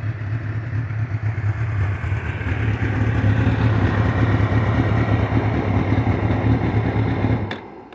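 Engine of a GSX-R 750–powered Yamaha Banshee running steadily through its new exhaust, getting louder about two seconds in, then shut off suddenly with a click near the end.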